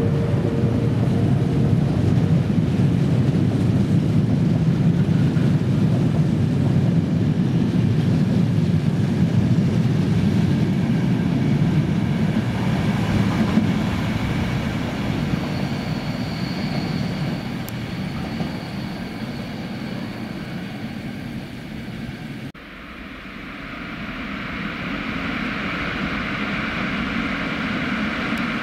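Low rumble of a passenger train of Corail coaches running past along an underground platform, fading as it recedes into the tunnel, with a thin high squeal for a couple of seconds partway through. After an abrupt cut about 22 seconds in, the rumble of another train approaching through the tunnel grows louder.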